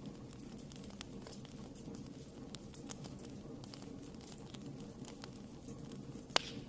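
Wood fire burning in a fireplace, crackling with irregular sharp pops over a low steady background, one louder pop near the end.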